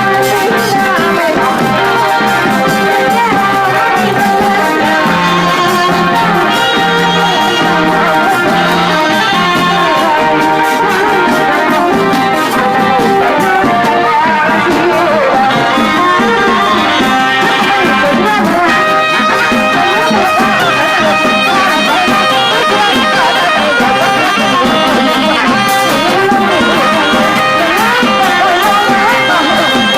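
Thai trae wong brass band playing a continuous tune, with brass and clarinet carrying the melody over a steady low bass line.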